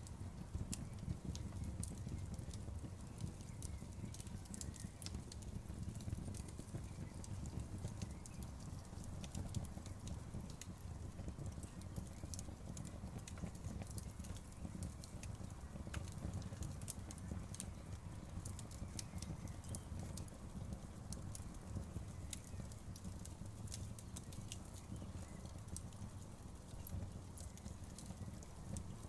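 Wood campfire burning: many sharp, irregular crackles and pops over a low, steady rumble of the flames.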